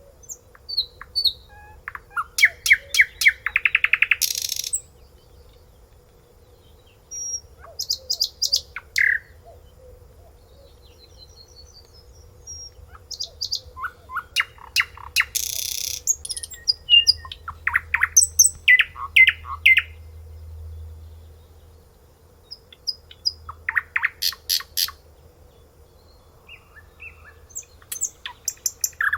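A songbird singing in separate phrases of rapid trills and quickly repeated chirping notes, with pauses of a few seconds between phrases.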